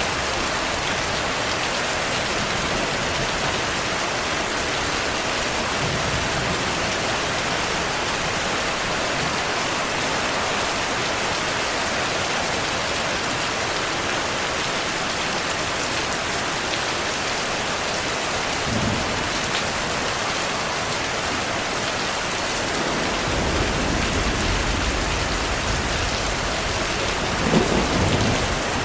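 Steady heavy rain falling. In the second half a low rumble of thunder builds, and a louder clap of thunder comes just before the end.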